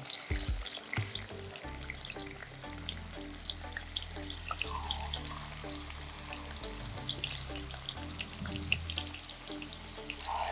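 Marinated quail deep-frying in hot oil: a steady sizzle with many small crackles and pops.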